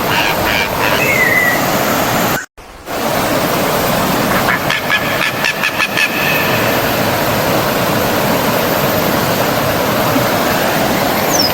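Steady rush of a stream's flowing water, with a bird calling in quick runs of repeated short high notes near the start and again around halfway. The sound cuts out for a moment about two and a half seconds in.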